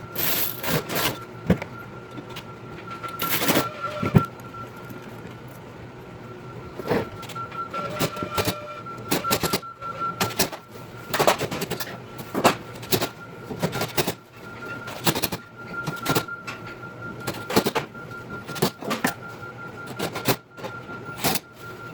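Grill assembly sped up fourfold: a rapid, irregular string of clicks, clanks and knocks of metal parts and hand tools being handled, over a steady thin high tone.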